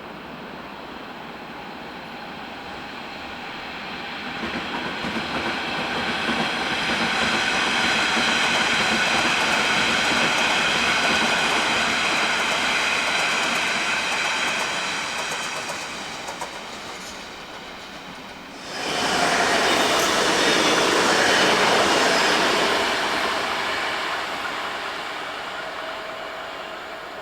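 Trains passing through a station. A first train swells up with a steady many-toned whine and wheel clatter, then fades. About two-thirds in, a second loud train pass starts abruptly and dies away.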